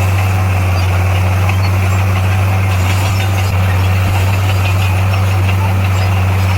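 Diesel engine of heavy earthmoving equipment running at a steady speed, a constant deep hum with no revving or change in pitch.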